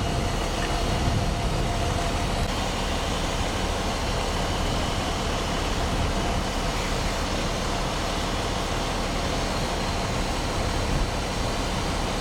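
Strong wind blowing across the microphone: a steady, rough rumble that fluctuates at the bottom without letting up.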